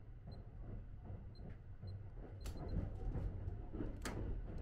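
Sunrise Express sleeper train heard from inside while running: a steady low rumble, with two sharp knocks about a second and a half apart in the second half.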